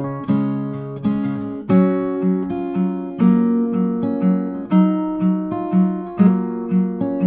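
Background music: acoustic guitar playing a gentle picked pattern, about two notes a second.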